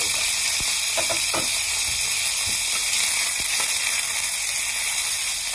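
Egg fried rice and beef frying in a hot pan, sizzling steadily, with a few short clicks and scrapes now and then.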